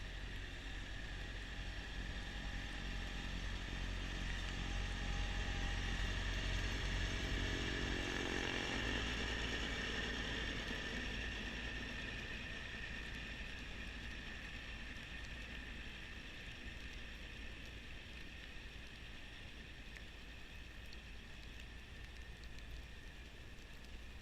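Kubota B2650 compact tractor's three-cylinder diesel engine running steadily while driving a front-mount snowblower. The sound swells to its loudest about a third of the way in, with the engine note dropping slightly around then, and fades slowly afterwards.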